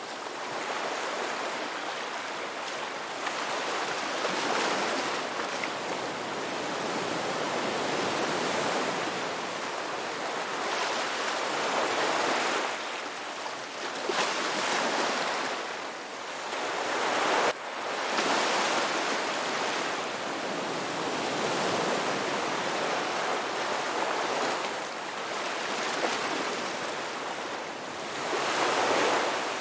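Ocean surf: waves breaking and washing in, the sound swelling and falling back every few seconds. There is a sudden short break in the sound about seventeen seconds in.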